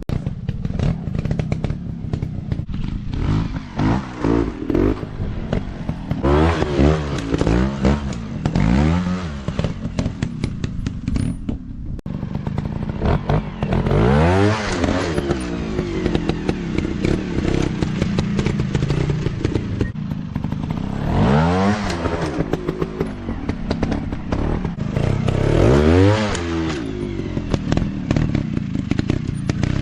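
Dirt bike engines running with repeated throttle bursts, the pitch climbing and falling again several times, along with some clattering.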